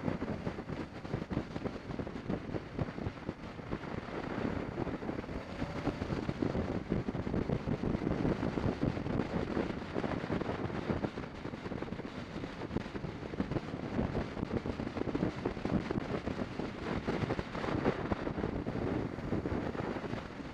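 Motorcycle being ridden along the road: wind buffeting the microphone over the engine and road noise, rising and falling in level.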